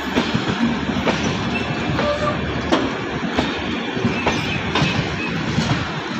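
LHB passenger coaches of an express train rolling past close by: a steady rumble of wheels on rail, broken by irregular sharp clacks as the wheels cross rail joints, with a few brief high wheel squeals.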